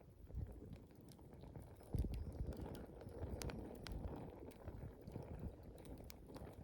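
Wood campfire burning: a low rush of flame with scattered sharp crackles and pops from the burning wood, and a soft low thump about two seconds in.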